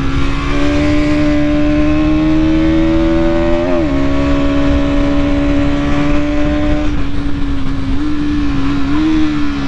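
Bajaj Pulsar NS200's single-cylinder engine running under load while riding, with wind rush. The engine note pulls slowly higher, dips sharply for a moment about four seconds in, as at a gear change, then holds steady and eases off near the end.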